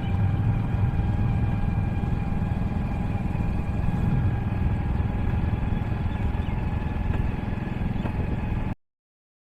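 Motorcycle engine idling steadily at an even pitch, cut off abruptly near the end.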